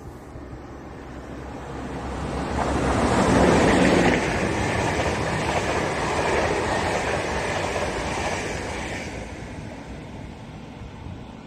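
A train passing: a rising rush of wheel and air noise that is loudest about three to four seconds in, holds for several seconds, then fades away.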